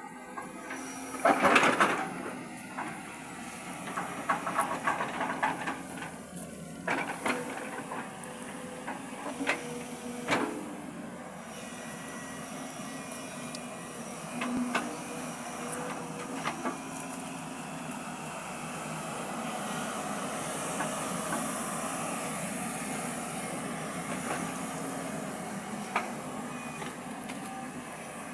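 Excavator running, a steady engine tone with scattered clanks and knocks, the loudest cluster about two seconds in.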